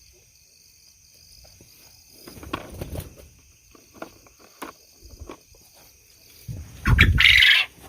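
Quiet rustling and scattered small knocks as quail eggs are picked out of the pen's bedding, over a steady high insect trill. A louder, brief scuffle comes near the end.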